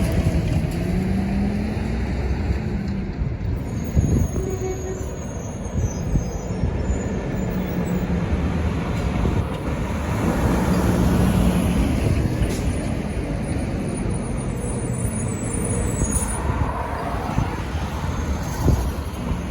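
Garbage truck's diesel engine running as it drives past, a steady low drone that swells midway, with a few short knocks.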